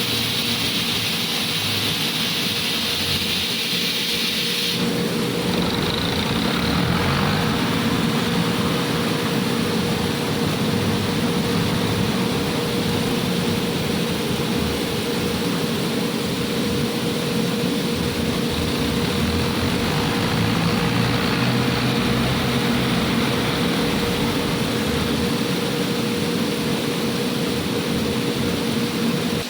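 Tractor engine running steadily, with a high hiss over it for the first five seconds or so.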